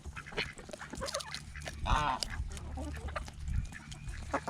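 Ducks quacking among a feeding flock of poultry, with one clear call about two seconds in and scattered short clicks.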